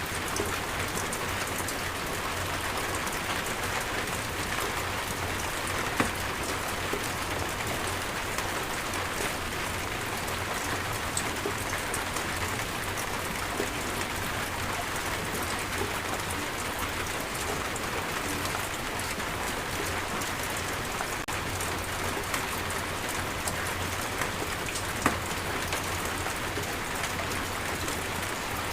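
Steady heavy rain falling on a surface, a dense even hiss with individual drops ticking through it and a couple of louder drop hits about 6 and 25 seconds in.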